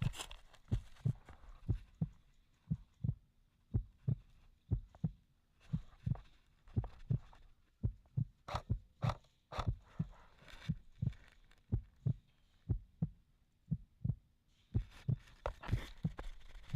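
Footsteps thudding steadily at a walking pace, about two to three a second, heavy in the low end.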